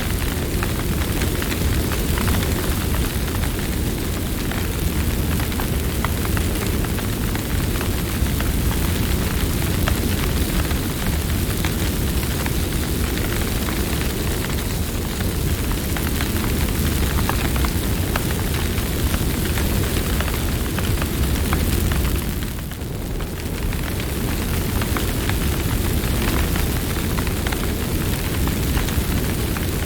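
Campfire burning: a steady low rumble of flames with many small crackles and pops, dipping briefly about three-quarters of the way in.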